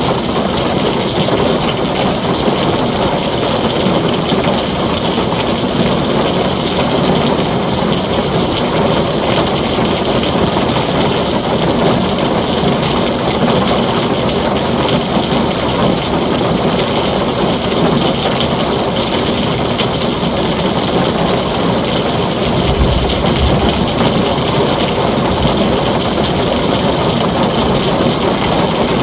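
Heavy rain drumming steadily on a tin roof, a dense unbroken hiss and patter. About two-thirds of the way through there is a short low rumble.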